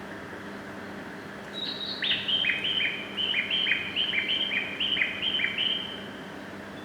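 A quick, regular run of high bird-like chirps, roughly four a second, starting about a second and a half in and stopping near six seconds, over a faint steady hum.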